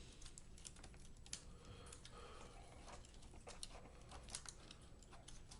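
Faint, scattered light clicks and taps from small plastic laptop parts and a cable being handled and fitted during reassembly.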